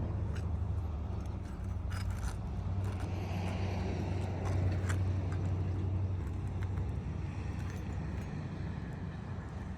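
A steady low rumble, with a few light clicks and scrapes in the first five seconds from asphalt shingles being lifted and worked by hand.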